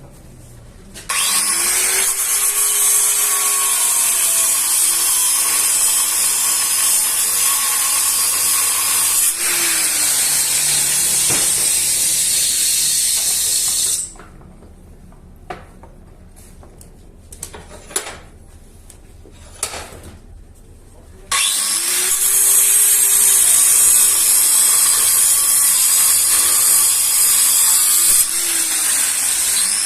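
A power tool working metal, running loud and steady in two long stretches. In the pause of about seven seconds between them come a few clicks.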